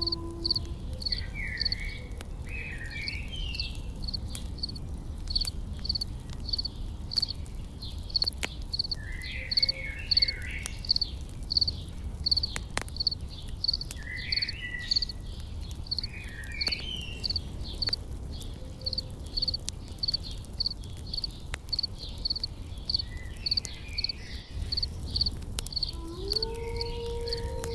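Campfire crackling over a low rumble while an insect chirps steadily about twice a second and birds give short chirping phrases every few seconds. A low held tone slides in near the end.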